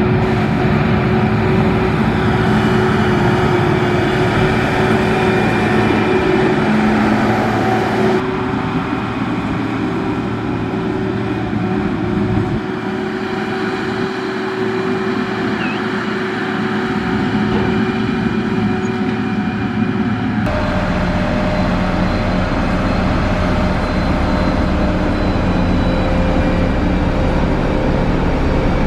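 Diesel engine of heavy road-building machinery running steadily under load. Its note and pitch change abruptly about 8 and 20 seconds in.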